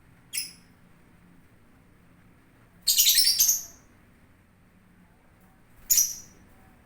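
Lovebirds calling: a short high-pitched chirp, then a longer, louder burst of rapid chirps about three seconds in, and one more short call near the end.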